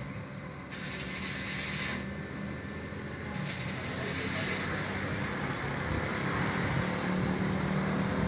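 MAG (gas-shielded wire) welding arc crackling in two short bursts of about a second each, beginner's tack welds, over a steady low hum that grows louder near the end.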